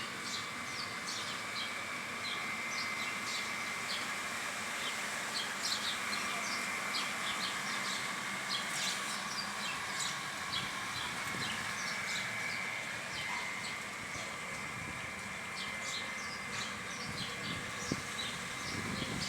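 Many small birds chirping, with short scattered calls throughout, over a steady high-pitched hum and a low background hiss.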